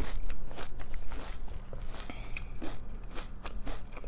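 Close-up chewing of crunchy breakfast cereal: a run of irregular crunches, several a second.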